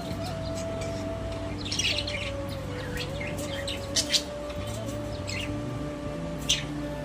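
Budgerigars chirping in short sharp calls: a chattering cluster about two seconds in, two quick chirps around four seconds and another near the end. Soft background music with long held notes runs underneath.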